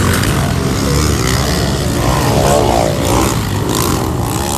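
Several pit bike engines revving up and down together, their pitches rising and falling as the bikes race.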